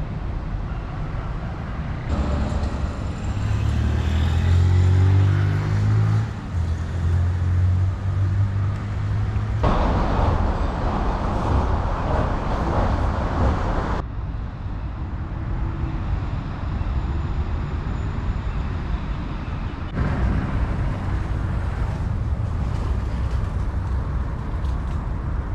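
City street traffic: vehicles passing with a steady road-noise bed. A motor vehicle's engine hum is loudest and lowest from about three to nine seconds in. The sound shifts abruptly several times.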